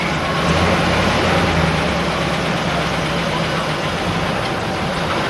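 A motor vehicle's engine running steadily with a low, even hum, amid a haze of street noise.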